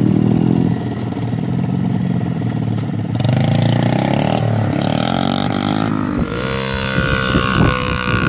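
Small motorcycle engine running and revving, its pitch rising and falling; the sound changes abruptly about three seconds in and again about six seconds in, where it revs up.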